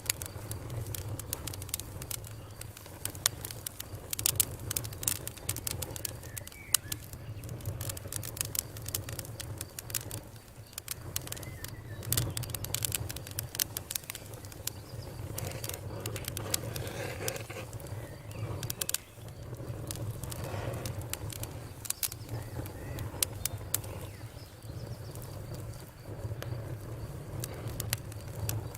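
Campfire crackling: wood burning with sharp, irregular pops and snaps over a steady low rumble of flame.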